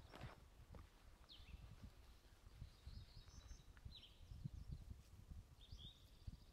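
Faint bird chirps: a handful of short single notes, with a brief high twitter about three seconds in, over a low rumble.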